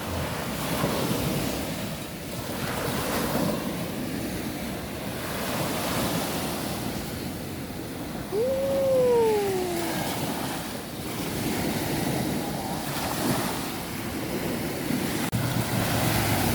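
Sea waves washing ashore, swelling and easing every few seconds, with wind on the microphone. About halfway through, a single short tone rises briefly and then slides down.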